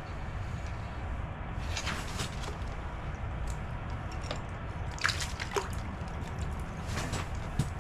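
Water splashing and dripping at an ice-fishing hole as a small panfish is pulled up and handled, with a few short splashes and sharp taps scattered through it.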